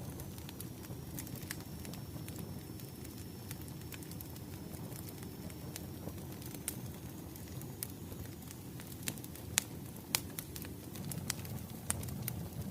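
Wood fire crackling: a steady low rumble of burning logs with sharp pops scattered through it, a few louder ones in the second half.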